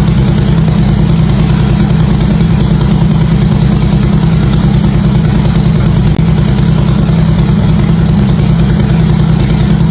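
Harley-Davidson V-twin motorcycle engine idling steadily through its exhaust, a fast, even low pulsing with no revs.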